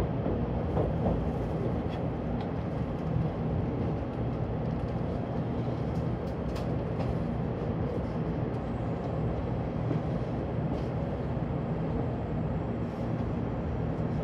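Steady low rumble of a Shinkansen in motion, heard from inside the passenger cabin.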